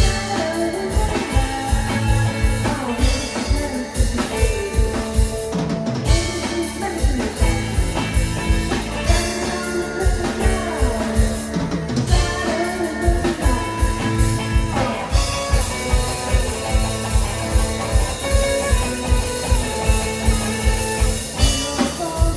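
Live band playing a song with drum kit and electric guitar, the drums keeping a steady beat.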